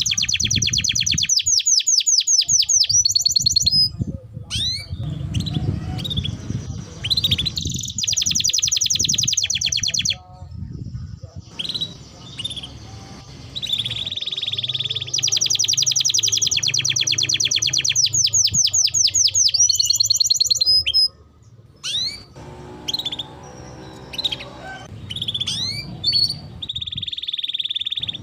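Domestic canary singing: long, very fast rolling trills, with short chirps and quick whistled glides between them.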